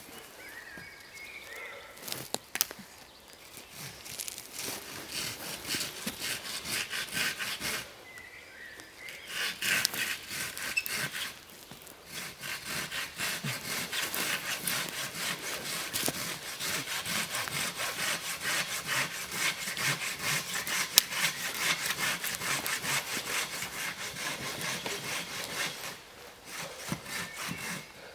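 Hand saw cutting through wood in steady back-and-forth strokes. It pauses briefly a few times and stops a couple of seconds before the end.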